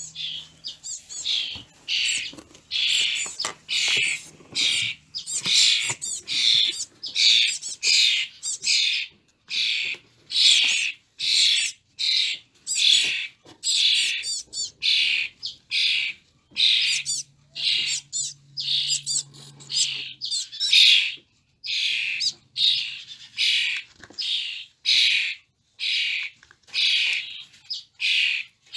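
Baby birds giving high, scratchy begging calls over and over, nearly two a second, while being hand-fed worms.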